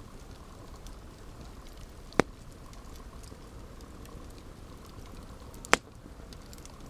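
Campfire burning with a steady low rush and faint crackles, broken by two sharp, loud pops, about two seconds in and again some three and a half seconds later.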